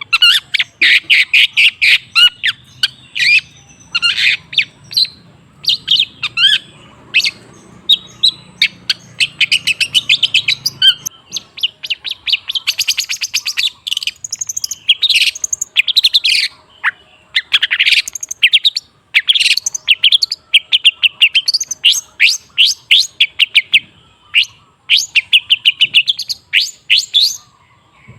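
Long-tailed shrike singing a fast, varied chattering song of rapidly repeated notes, with brief pauses between phrases.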